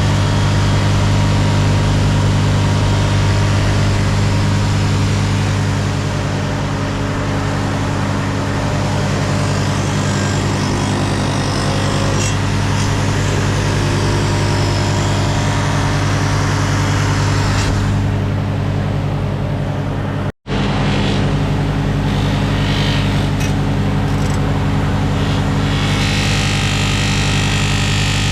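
A steady machine motor running continuously, cut off for an instant about twenty seconds in before carrying on.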